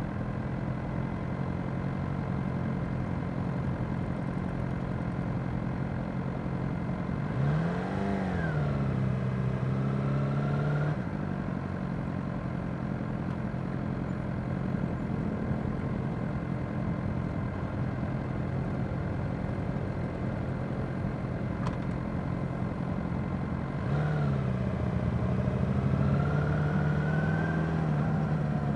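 Suzuki GSX-R600 inline-four motorcycle engine ticking over in a slow pack of motorcycles. It picks up twice, about eight seconds in and again about twenty-four seconds in, the pitch rising each time as it pulls away and rolls on in a low gear before easing back.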